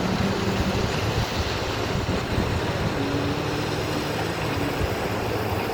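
An engine running steadily under a dense, even rushing noise, its low hum shifting slightly in pitch about three seconds in.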